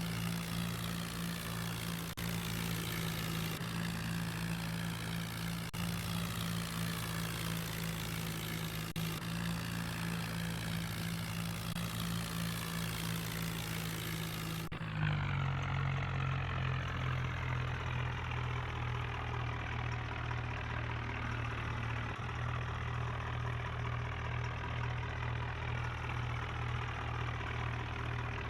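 Tractor diesel engine running at a steady speed. About halfway through, the note drops abruptly to a lower, steady pitch.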